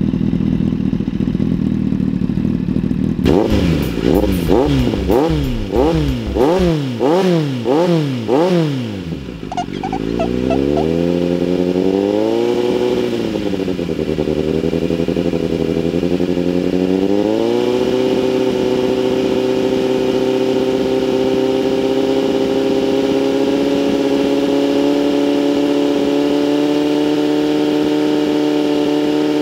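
Kawasaki Z800 inline-four running through an aftermarket slip-on exhaust. It idles, is blipped quickly about eight times over some six seconds, rises and falls once more slowly, and then is held at a steady raised engine speed.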